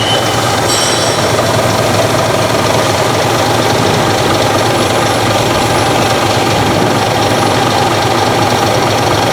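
Scania truck's diesel engine running steadily at idle, close by.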